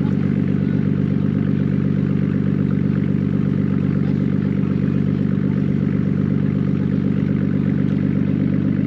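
A car engine idling steadily, with a low, even throb that holds the same pitch throughout.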